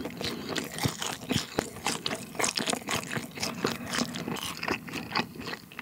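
Close-miked chewing of food with the mouth closed: a dense, irregular run of small crunches, clicks and smacks.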